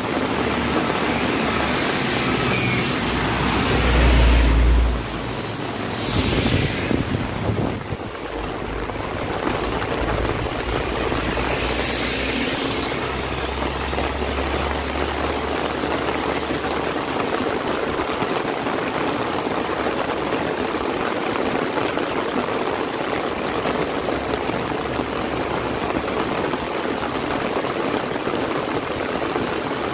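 Heavy rain falling steadily, with vehicles passing on the wet road in the first half, the loudest about four seconds in. Only the rain remains in the second half.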